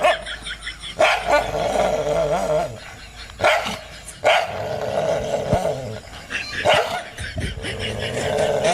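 A dog barking several times, a second or more apart, each bark running on into a drawn-out pitched sound.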